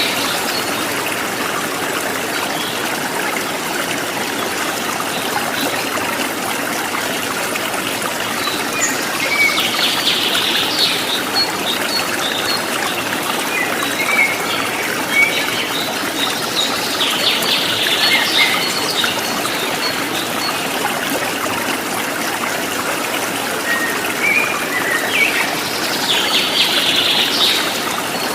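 Steady trickling and splashing of a small stream, with a bird breaking in three times in short bursts of song, roughly every eight seconds.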